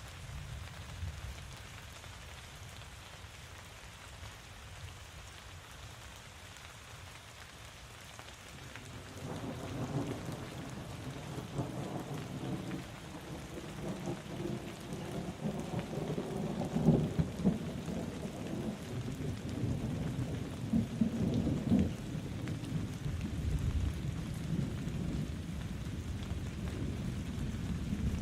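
Steady rainfall, joined about a third of the way in by rolling thunder that rumbles on, swelling louder twice.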